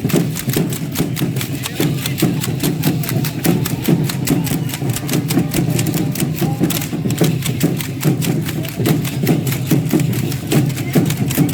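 Rhythmic percussion for a matachines dance: sharp, even beats about three to four a second that keep going without a break, over a low crowd rumble.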